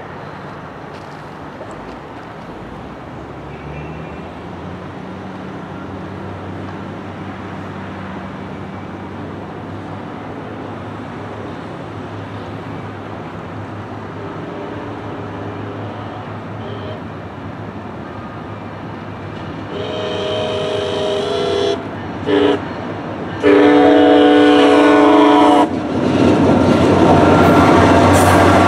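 A diesel train approaching, its engine rumble slowly building. Its horn then sounds a long blast, a short one and a long one, and the train arrives and rolls past loudly near the end.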